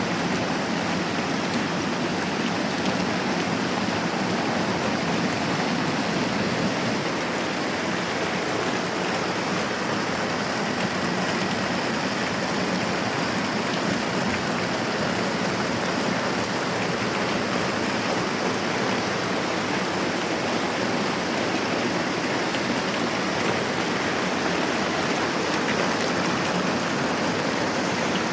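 Moderate rain falling steadily, an even hiss without breaks.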